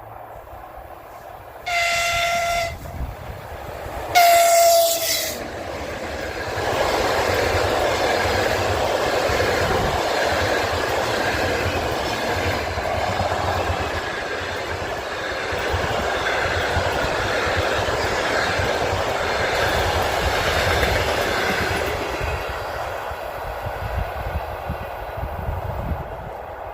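EP2K DC electric locomotive sounding its horn twice, the second blast louder, then the passenger train passing close by with a sustained rumble of wheels on rails and some clickety-clack, easing near the end.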